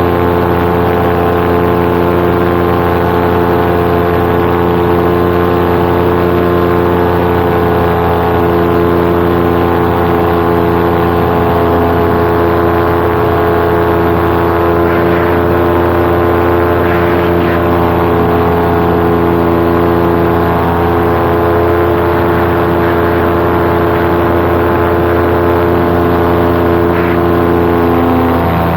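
Paramotor engine running at a steady throttle in flight, one even drone with no change in pitch.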